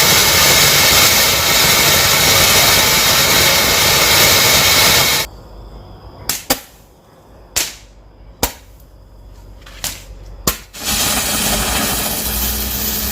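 Consumer fireworks: a loud, steady hissing spray, then a quieter stretch with about six sharp pops a second or so apart, then the loud hiss again near the end.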